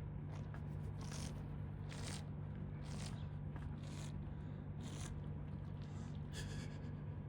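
Giraffe drinking from a swimming pool: short wet slurps at the water about once a second, over a steady low hum.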